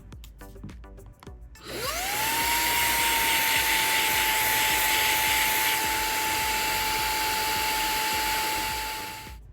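Xiaomi Mi Vacuum Cleaner mini, a handheld cordless vacuum, switched on: its motor spins up with a quickly rising whine that settles into a steady high whine over a rush of air. It runs for about seven seconds, then stops near the end.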